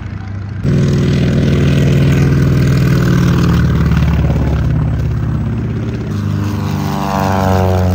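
Propeller aircraft flying past low, a loud, steady engine-and-propeller drone that jumps up less than a second in, with its pitch dropping near the end as it passes.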